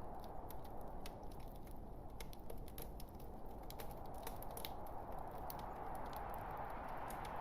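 Wood fire burning in a fireplace: irregular sharp crackles and pops, several a second, over the steady rushing hiss of the burning logs.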